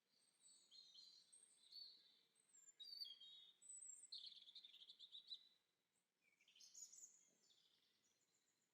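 Faint songbirds chirping and twittering in quick high calls and trills, with a brief lull about six seconds in before more calls.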